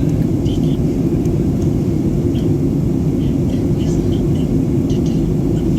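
Steady low rumble of Boeing 737-800 cabin noise in flight on descent: engine and airflow noise heard from inside the passenger cabin, with a few faint short higher sounds over it.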